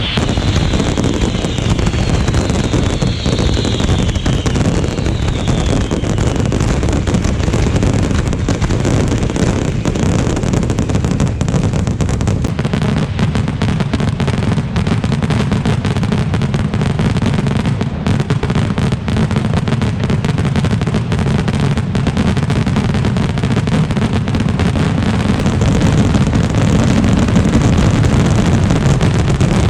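Fireworks display in a dense barrage: an unbroken, loud rumble of bursts packed with crackling.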